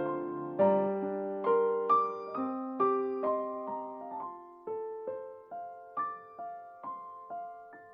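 Soft solo piano music: gently struck notes and chords that ring and decay, the music fading out near the end.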